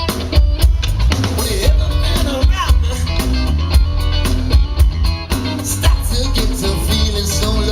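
Live band playing an upbeat rock song with a singer, guitar, heavy bass and drums.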